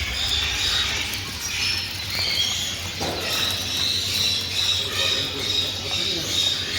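Many small caged songbirds chirping together, short high calls overlapping, over a steady low hum.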